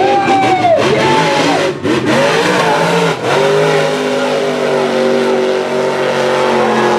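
Mega truck engine revving hard under racing throttle. Its pitch falls off soon after the start, then it holds steady at high revs from about three seconds in and drops again near the end.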